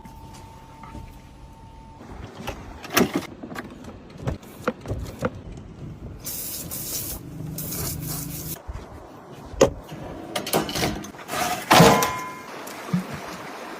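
Irregular knocks, clicks and clatter of hands working with cookware and food, with a high hiss lasting about two seconds in the middle.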